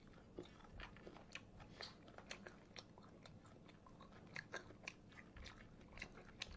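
Faint chewing of food: irregular wet clicks and smacks from a mouth eating, a few every second.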